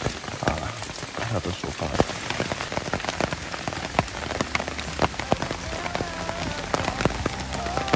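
Steady rain falling, with many separate heavy drops ticking sharply and irregularly.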